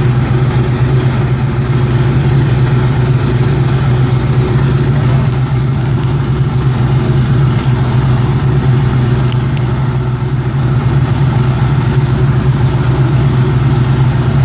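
Race car engine running loud on a dyno, holding a steady speed with a deep, even note that neither rises nor falls.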